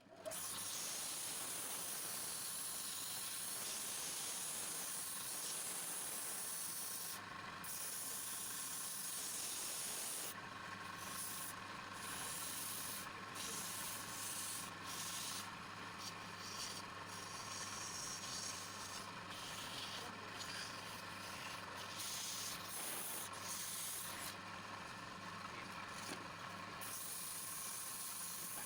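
Continuous sanding or abrasive rubbing, with a steady hum beneath. The hiss drops away briefly many times in the second half.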